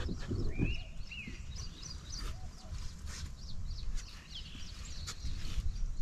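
Wild birds calling over a low steady rumble: a clear whistled call that rises and falls about a second in, and scattered short high chirps.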